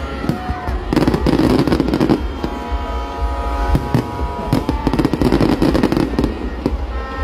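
Aerial fireworks shells bursting overhead in a rapid, irregular string of bangs and crackles, with music playing underneath.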